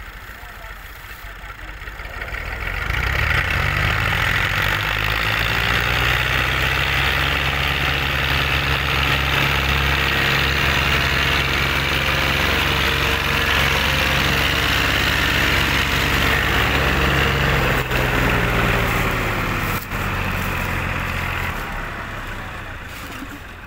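Massey Ferguson 240 tractor's diesel engine running steadily under load as it pulls a loaded trolley. It gets much louder about three seconds in and fades near the end.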